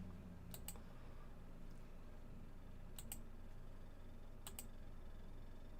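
Three pairs of faint, sharp clicks, the two clicks in each pair a fraction of a second apart, over a low steady hum.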